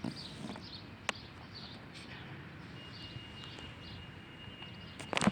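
Outdoor park ambience with faint bird chirps, a thin steady high tone in the middle, and scattered light clicks and footsteps. A sharper knock comes near the end.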